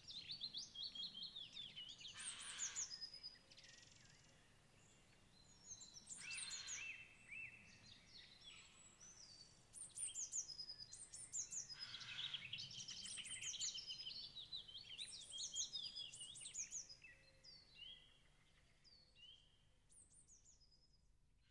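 Birdsong: several small birds chirping and trilling in quick, overlapping phrases, with short lulls between clusters, fading out near the end.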